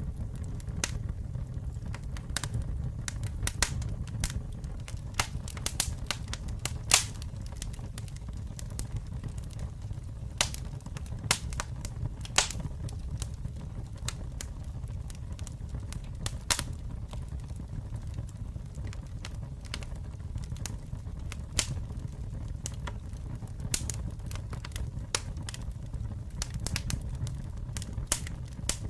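Campfire burning with a steady low rumble of flames and irregular sharp crackles and pops of burning wood, a few louder pops standing out.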